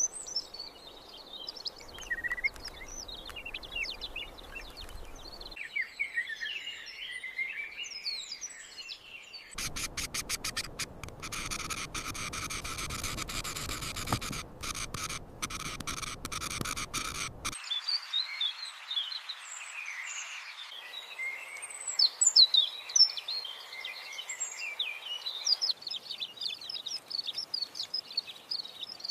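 Small birds chirping and twittering, in several stretches of outdoor ambience that change abruptly from one to the next. In the middle, for about seven seconds, a denser hissing stretch with rapid ticks runs under the chirps.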